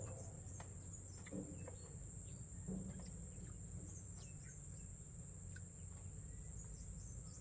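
Steady high-pitched drone of insects, crickets or cicadas, in forest, with scattered short chirps and ticks and a couple of soft knocks in the first three seconds.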